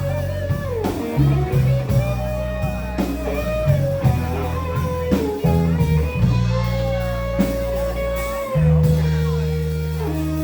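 Live blues-rock band: a lead guitar plays sustained notes with pitch bends over bass and a drum kit.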